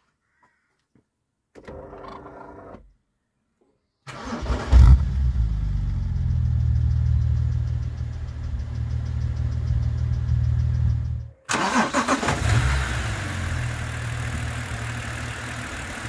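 BMW Z4 3.0si's 3.0-litre naturally aspirated straight-six catching about four seconds in with a brief rev flare, then settling into a steady idle. After an abrupt break near the end, the idle is heard again with more mechanical noise on top.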